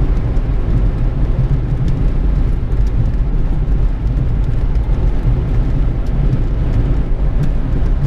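Steady road and engine noise of a vehicle travelling at highway speed, a constant low rumble with no change in pace.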